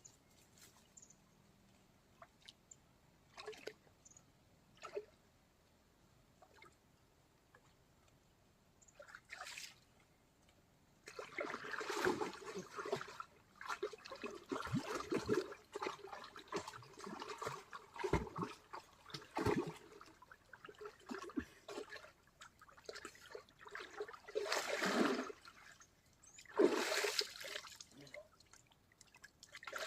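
Water splashing and sloshing. For the first ten seconds or so there are only scattered drips and small splashes, then splashing runs on continuously, with two louder splashes near the end.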